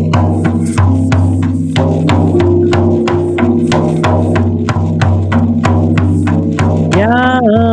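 Sound-healing music: a steady drum beat of about three or four strikes a second over a low held drone and sustained tones that step between pitches. Near the end a new tone slides upward and wavers.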